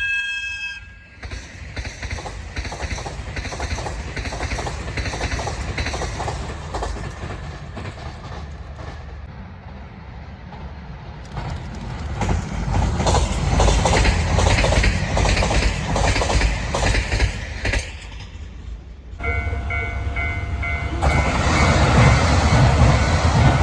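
Trains passing over rail joints, the wheels clattering in a clickety-clack rhythm over a steady rumble, in several separate pass-bys cut one after another. A repeating tone joins the rumble about three quarters of the way through.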